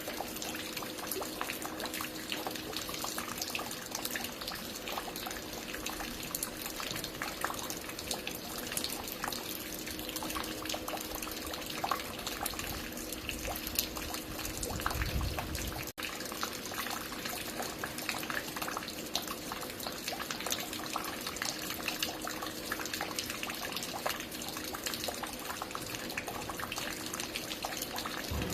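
Water falling and dripping at a construction site: a steady, dense patter of drops and splashes over a faint steady hum, with a brief low rumble about halfway through.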